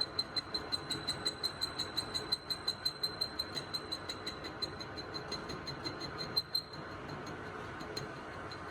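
Workshop machine running with a rapid, even ticking of about five ticks a second over its steady running noise; the ticking stops about seven seconds in and the steady running goes on.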